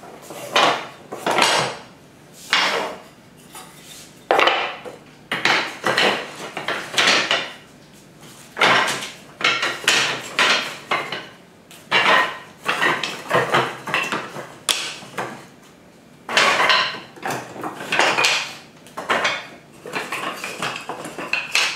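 Loose, unassembled wooden beehive frame parts clattering and knocking against each other as they are handled, in many short bursts.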